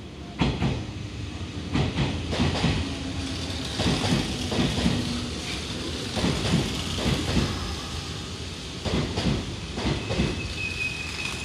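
Hanshin Railway electric train running along the platform, its wheels clacking over rail joints in an irregular run of knocks over a steady rumble. A high, steady whine comes in near the end.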